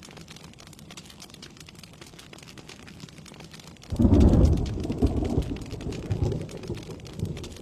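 Steady rain falling, then about four seconds in a sudden loud rumble of thunder that rolls on and fades away over the next three seconds.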